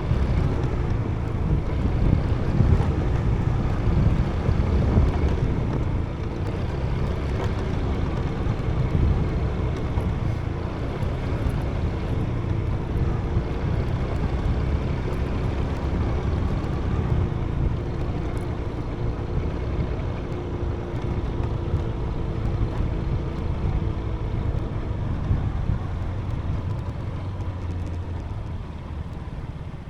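Wind buffeting the microphone on a moving motorbike, with the bike's engine running steadily underneath; the sound eases off near the end.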